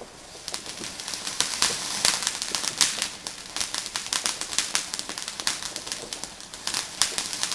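Fireworks crackling: a dense run of rapid, irregular small pops that builds from about a second in.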